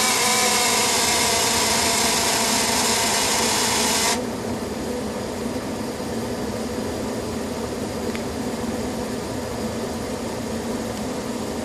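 Home furnace at startup in heat mode making its unexplained noise: a loud, steady drone with several pitches cuts off suddenly about four seconds in, leaving a quieter, steady rush of air. The uploader says this noise comes only at startup, before the blower starts.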